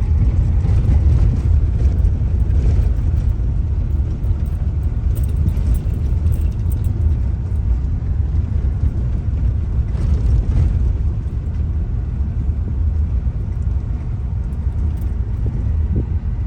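Steady low rumble of a moving car on the road, engine and tyre noise with no distinct events.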